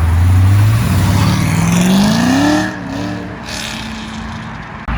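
Chevrolet Corvette C6 Z06's 7.0-litre LS7 V8 accelerating away. A deep exhaust note rises in pitch for about a second and a half, drops at a gear change, then pulls on more quietly as the car moves off.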